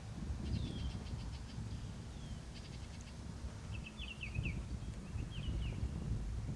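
Wild birds calling: short high chirps, a few downward-sliding notes and quick trilled phrases, over a steady low rumble.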